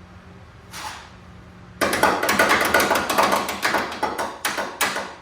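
A rapid, uneven clatter of metal impacts that starts about two seconds in and lasts about three seconds, from work on a car's front suspension. It is most like hammering or an air tool rattling on steel, and it is preceded by one short knock just under a second in.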